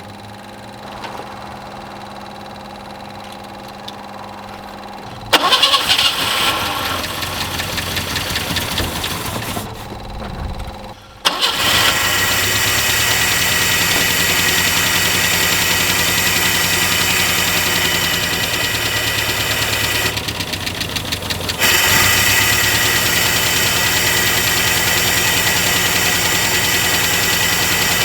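Peugeot 403's 1.5-litre four-cylinder engine running on its fuel pump after a tune-up, with the vacuum advance disconnected. It runs steadily for about five seconds, then suddenly louder and rougher, nearly cuts out just before the middle, and comes back loud and steady, with a short dip in level about three-quarters of the way through.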